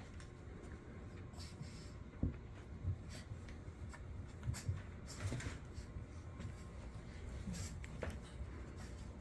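Two Shih Tzus scuffling in play indoors: rubbing and shuffling sounds, with a few soft thumps in the first half.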